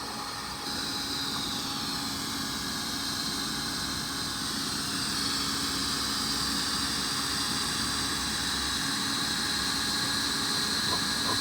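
Handheld plastic welding machine running steadily on PP sheet, a high whine over a hiss with a low hum beneath.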